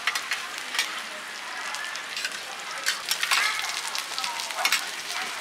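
Mussel omelettes and bean sprouts frying with a steady sizzle on a large round flat pan, with metal spatulas clicking and scraping against the pan as the food is turned and pushed around.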